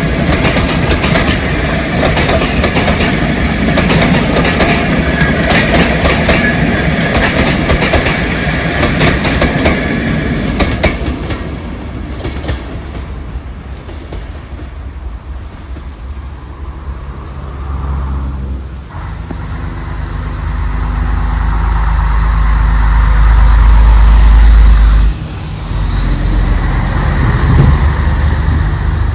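A train passing with the wheels clattering over the rail joints, the clatter dying away after about ten seconds. In the second half a deep low rumble builds up, drops suddenly near the end, and carries on more quietly.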